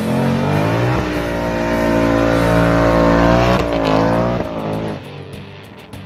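2019 Ford Mustang Bullitt's 5.0 V8 revving hard as the car launches with its rear tyres spinning and smoking. The pitch climbs and holds high, drops and climbs again briefly near four seconds, and the sound fades quickly about five seconds in as the car pulls away.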